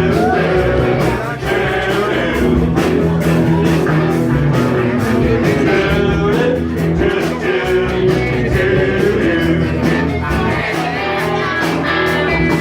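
Live rock band playing a rock song, led by electric guitar over bass and a steady drum beat.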